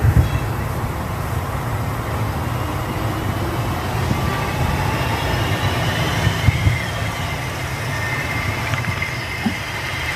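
Steady low rumble of city street ambience with vehicle noise, which the recorder takes for a thunderous sound from a clear sky. A couple of brief knocks come about six and a half seconds in.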